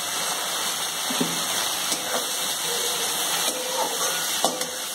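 Chopped coriander and mint leaves sizzling in melted butter in a kadai (wok), a steady hiss, with a few light clicks and scrapes of a spatula stirring them.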